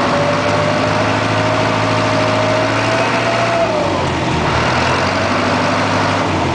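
Small ferry boat's engine running steadily, with a whine that slowly rises and then drops away about four seconds in.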